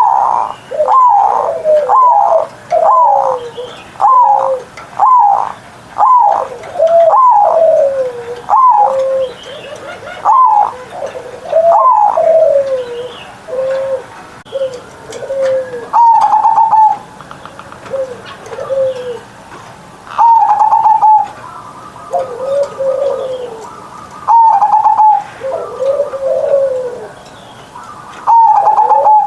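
Zebra dove (perkutut) cooing loudly: a run of short rising-and-falling coos about one a second, then spaced phrases of a higher opening note followed by lower trailing coos, about every four seconds.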